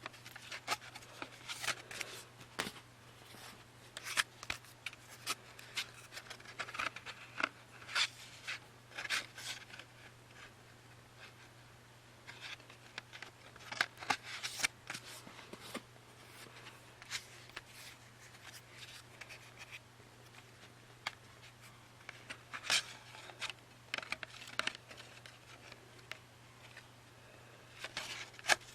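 Hands handling CD box-set packaging: irregular clicks, taps and rustles of cardboard sleeves and paper, over a faint steady hum.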